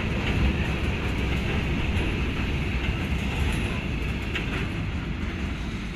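Freight train of Uacns silo wagons rolling past: a steady rumble of wheels on rail with a high rail hiss, one short click about four seconds in, easing off slightly near the end.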